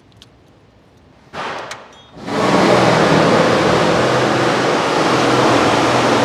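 A loud rushing hiss: a short burst a little over a second in, then a steady blast of about four seconds that cuts off suddenly.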